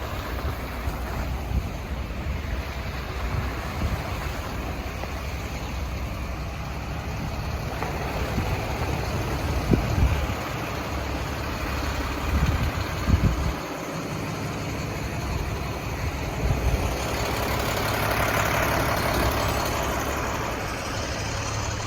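City street traffic with wind rumbling on the microphone. A few low bumps come about halfway through, and the traffic noise swells near the end as a vehicle passes.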